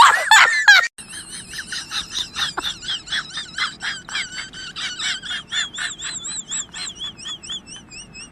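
Washing machine giving a rhythmic, high-pitched squeal that wavers in pitch and repeats about three to four times a second. It starts about a second in, right after a person's wailing voice, and grows gradually fainter.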